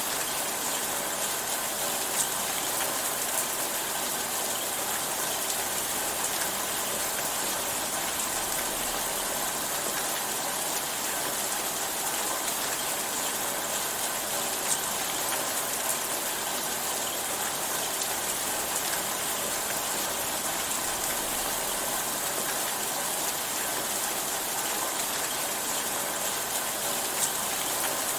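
Steady rainfall, an even hiss with a few sharper drop ticks now and then.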